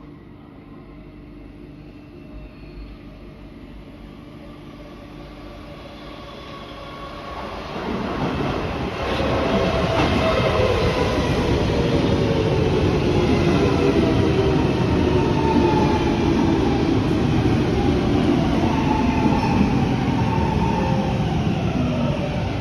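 A train pulls in. It is faint at first, grows loud about eight seconds in, then its whine falls steadily in pitch as it slows to a stop.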